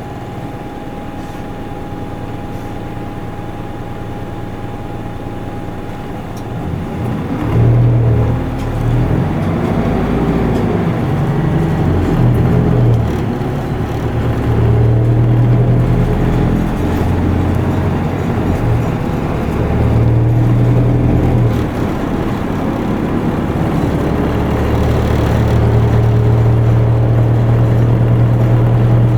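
Isuzu Erga Mio city bus's four-cylinder diesel engine heard from inside the cabin: running quietly at first, then about seven seconds in it picks up and accelerates, rising in pitch with brief dips at gear changes, and settles into a steady, louder drone under load near the end.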